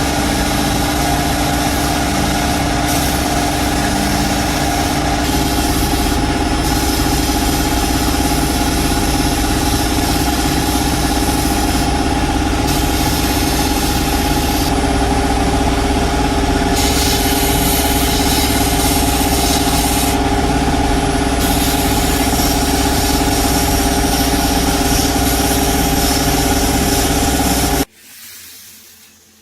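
A workshop power tool's motor running steadily for a long stretch, its high hiss rising and falling in level several times as it works, then cutting off suddenly near the end.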